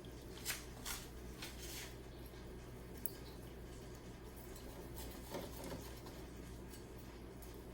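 Soft clicks and light scraping of kitchen utensils as fettuccine Alfredo is served onto a plate, a few times, over a low steady hum.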